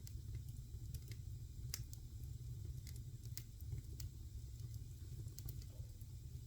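Fire in a fireplace crackling: a dozen or so irregular sharp pops and snaps over a steady low rumble of the flames.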